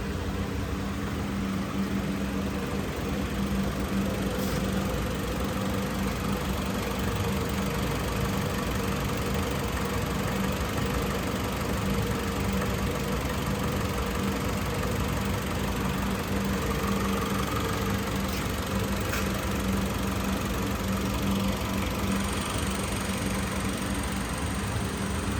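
2011 Mitsubishi Outlander Sport's 2.0-litre four-cylinder engine idling steadily.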